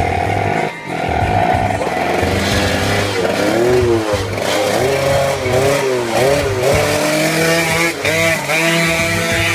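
Motorcycle engine revving hard, its pitch sweeping up and down several times, with background music.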